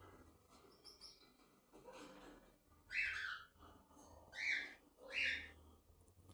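Cockatiels calling: three loud, short shrill calls in the second half, with fainter high chirps before them.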